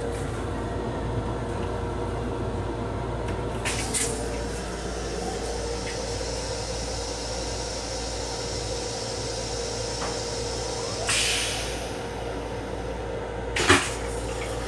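Steady rumble and hum of an M7 electric railcar running, heard inside its small restroom. Brief hissing rushes come about four seconds in and again near eleven seconds, and a sharp knock near the end is the loudest sound.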